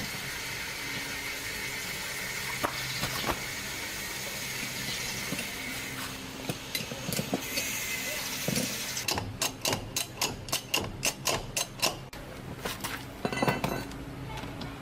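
Light metallic clicking and tapping, like hand tools working on car parts, over a steady hiss. A quick run of sharp clicks starts about two thirds of the way in, with a denser cluster near the end.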